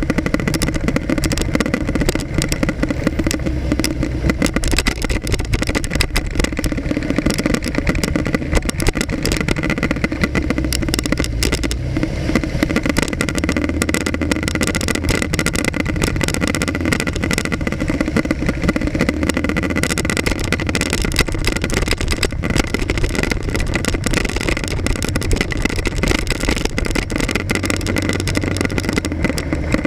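Motorcycle engine running as the bike rides through city traffic, heard from an action camera mounted on its front, with steady rough buffeting of wind on the microphone.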